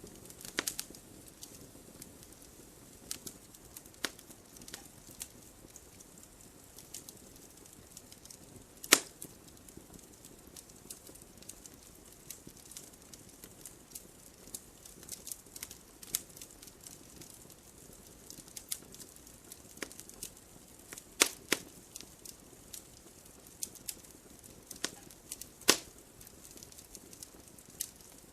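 Wood fire crackling: irregular small pops and ticks over a faint hiss, with three louder snaps, about nine seconds in, around twenty-one seconds and near the end.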